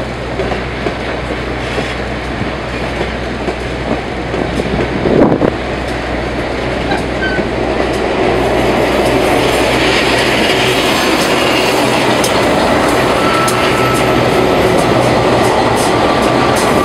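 Passenger train cars rolling past close by on the next track, wheels clattering, with a single loud knock about five seconds in. The noise grows louder about eight seconds in as the diesel locomotive draws alongside, and a thin wheel squeal comes in near the end.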